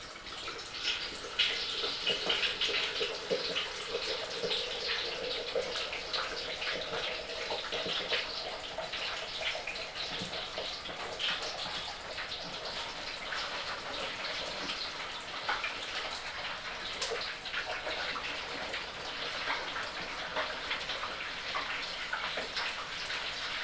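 Hot oil in a turkey fryer bubbling and sizzling hard around a whole turkey, a dense crackle full of fine pops. It surges about a second in, then keeps up steadily.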